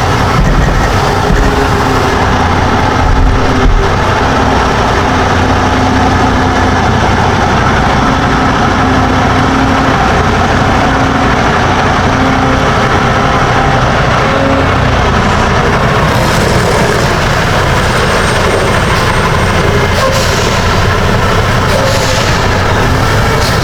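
Semi truck driving along: a steady diesel engine hum with road noise.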